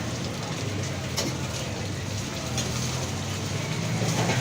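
Burger patties and fries frying at a street food stall, a steady sizzle of hot oil on a griddle, over a low steady hum of a nearby engine.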